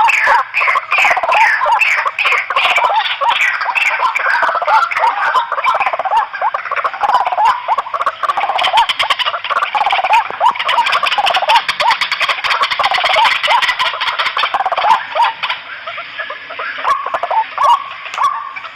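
White-breasted waterhens calling noisily, several birds together. Their repeated call notes come about three a second at first, then thicken into a dense, overlapping chatter.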